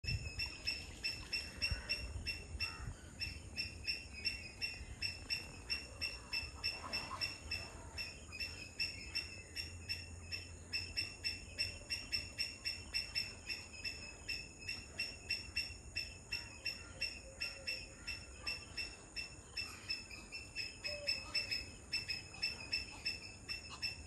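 A bird calling one short high note over and over, very regularly, about three times a second, with a steady high-pitched drone behind it.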